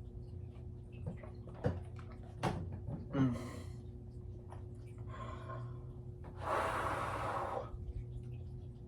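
A man breathing hard through his mouth against the burn of an extremely hot chili chocolate bar: a few short clicks early on, a short breath out about five seconds in, then a longer, louder exhale of about a second near the end. A low steady hum runs underneath.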